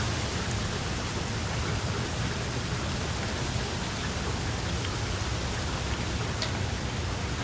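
Steady rain, an even hiss with a few distinct drop taps, one clearer near the end.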